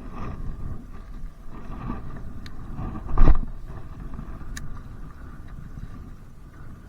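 Wind rumbling on the microphone aboard a kayak, with a loud thump about three seconds in and a few small clicks.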